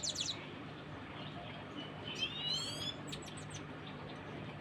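Young Himalayan goldfinch practising its song: a quick run of high notes at the start, a rising twittering phrase about two seconds in, then a few sharp chips. A faint steady hum lies underneath.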